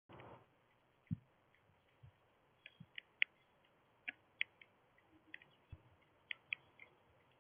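Short, high chip notes from small birds, scattered irregularly and faint, with a few soft low thumps among them.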